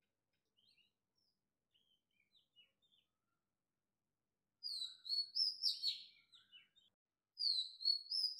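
A small bird chirping: faint scattered chirps at first, then two louder phrases of quick falling notes, one about halfway through and one near the end.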